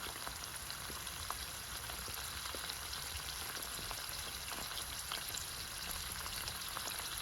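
Meat sizzling in olive oil in a pan: a steady frying hiss with scattered small pops and crackles.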